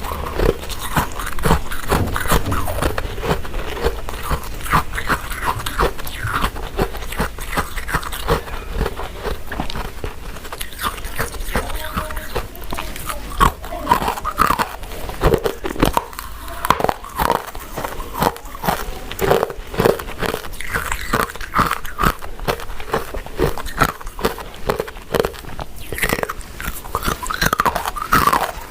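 Eating sounds: biting and chewing soft, chewy glutinous rice cakes and sweet potato balls, a continuous run of short mouth clicks and smacks.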